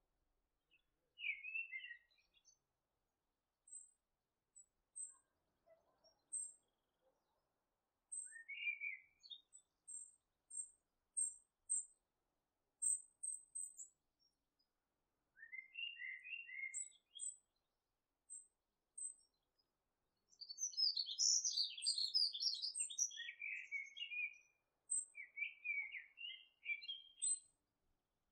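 Birds chirping: scattered short chirps and very high, thin repeated notes, growing much busier and overlapping about twenty seconds in.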